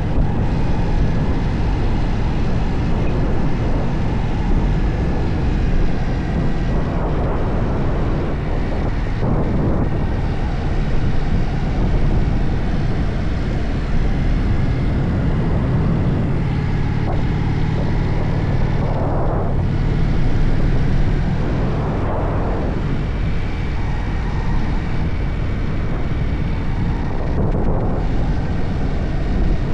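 Motorcycle engine running while under way, its note rising and dipping every few seconds.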